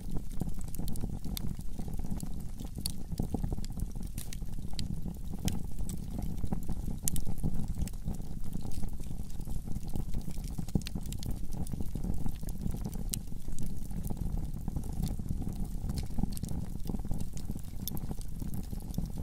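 Wood fire in a fireplace crackling: a steady low rumble of burning with irregular sharp pops and snaps throughout.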